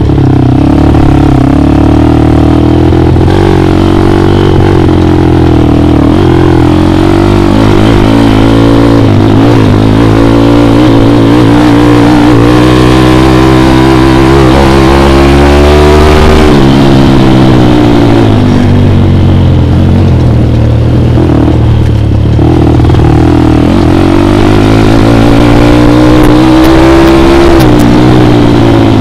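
Dirt bike engine running loud under throttle, its pitch climbing and falling as the rider accelerates and eases off. The pitch drops sharply about halfway through, then climbs steadily again toward the end.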